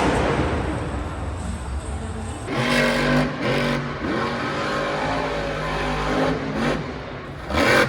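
Monster truck's supercharged V8 engine revving hard in repeated bursts, its pitch rising and falling, with a short loud surge near the end.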